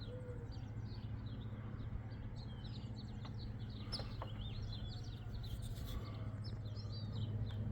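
Several small birds chirping rapidly in short overlapping calls over a steady low hum.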